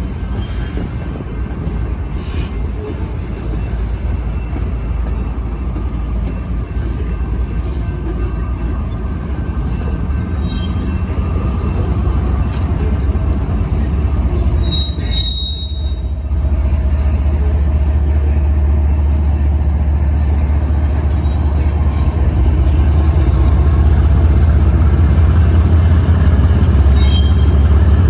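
Train backing slowly along the track: a steady low rumble of rolling cars that grows louder, with a few short high-pitched wheel squeals.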